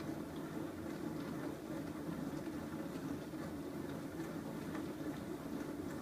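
Bosch SMS50M08GN dishwasher running mid-cycle: a steady hum from the wash pump with water spraying and splashing inside the tub.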